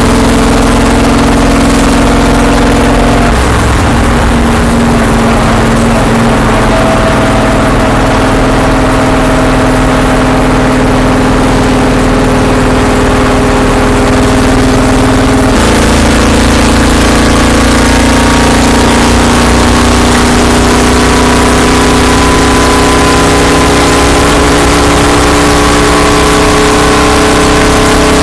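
Stock car's V8 engine heard from inside the cockpit at speed on an oval track, loud and steady with wind and road noise. The engine note shifts about three seconds in and again about halfway through, as the throttle eases and picks up around the turns.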